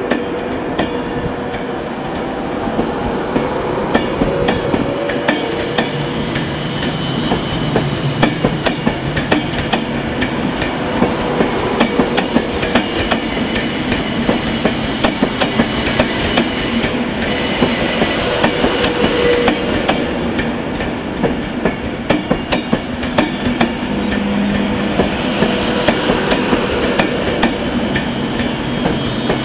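Class 390 Pendolino electric train pulling out and gathering speed: a continual clatter of wheels over rail joints, with steady whining tones and a whine that rises in pitch near the end.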